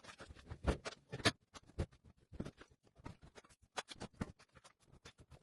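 Irregular clicks and knocks from handling an old washing machine as it is pulled out of its place, with two louder knocks about a second in.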